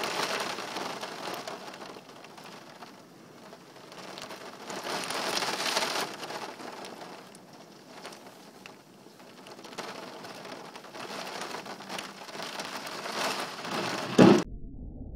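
Heavy rain pouring steadily, its hiss swelling and easing in waves as the downpour gusts. Near the end a single loud, short thump stands out, and right after it the rain sound cuts off abruptly, leaving only a dull low rumble.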